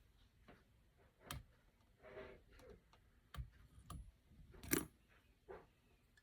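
Scattered small clicks and taps from handling fly-tying tools and materials at the bench, about five sharp ones, the loudest a little under five seconds in, with a soft rustle about two seconds in.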